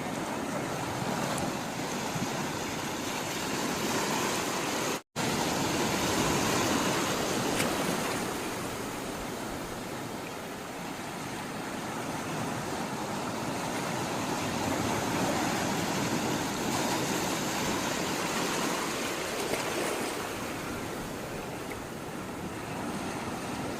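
Sea water rushing and washing, a steady hiss that swells and eases slowly. It drops out for an instant about five seconds in.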